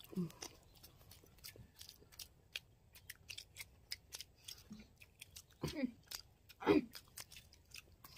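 Faint close-up chewing of boiled eggs: many small, irregular mouth clicks and smacks, with two short voice sounds a little past the middle.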